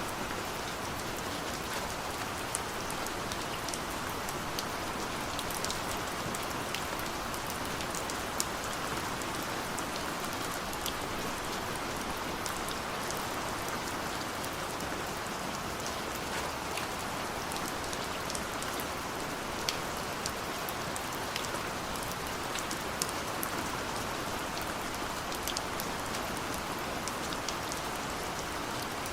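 Steady rainfall: an even hiss of rain with many scattered sharp drop ticks landing on a surface.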